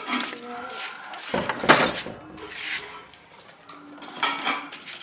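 Hard plastic toys clattering and knocking against each other, the loudest clatter about two seconds in, with children's voices in between.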